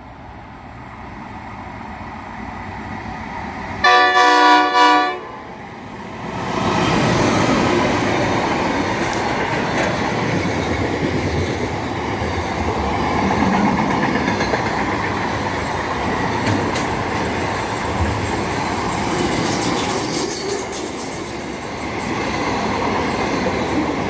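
A train horn sounds once for over a second, then a passing train runs on steadily with the rumble and clatter of its wheels on the rails.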